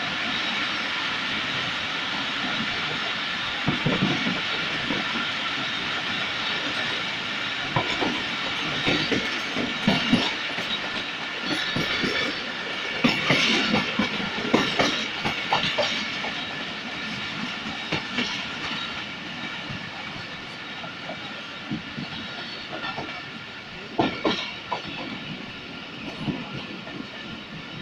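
Passenger train coach running along the track, heard from its doorway: a steady running noise with irregular clacks and knocks from the wheels on the rails, the knocks thickest in the middle. The sound grows quieter in the second half.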